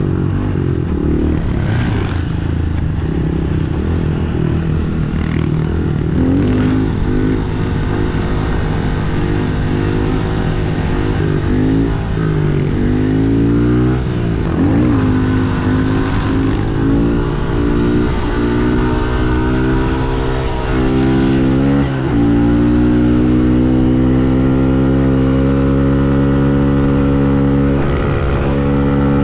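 Pit bike's small single-cylinder engine being ridden hard. Its pitch rises and falls over and over with throttle and gear changes, then it is held high and steady, slowly climbing, near the end.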